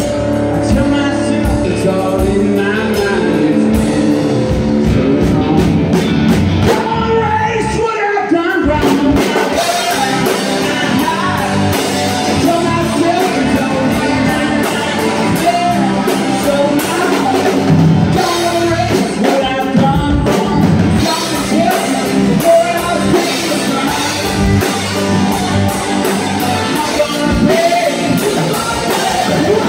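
A rock band playing live with a singer: full band with drums and guitar under a sung vocal line.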